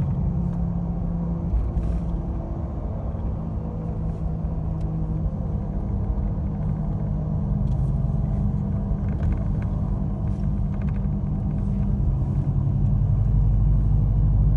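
Car engine and road noise: a steady low rumble with a drone from the engine.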